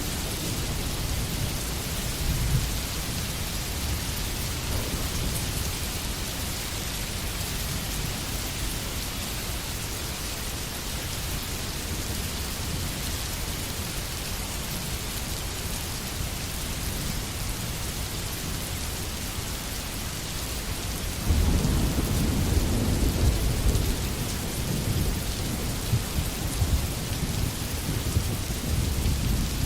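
Steady rain with low rolling thunder; a louder roll of thunder breaks in suddenly about two-thirds of the way through and rumbles for a few seconds.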